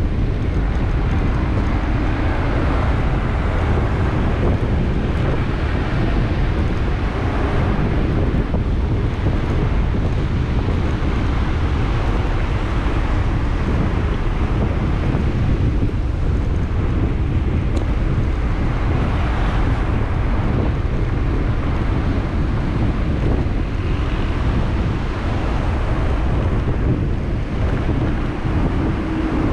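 Wind buffeting the microphone of a camera riding on a moving mountain bike: a steady, loud rumble of wind noise.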